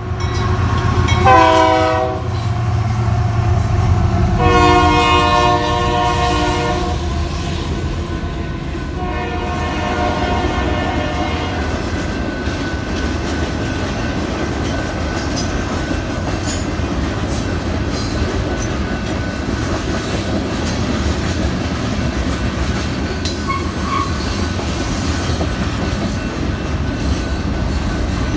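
Union Pacific diesel freight locomotive's air horn sounding a short blast and then longer blasts for the crossing. Once the horn stops, the freight cars rumble and clickety-clack steadily over the crossing.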